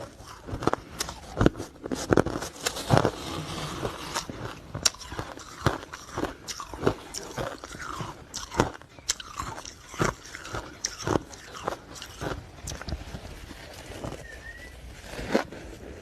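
Ice cubes being bitten and chewed up close, with repeated sharp crunches at an irregular pace.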